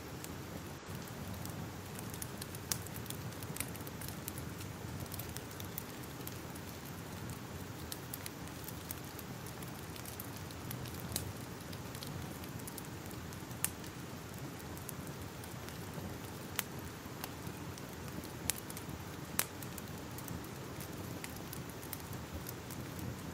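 Wood fire crackling: a steady soft hiss with irregular sharp pops, a few of them louder than the rest.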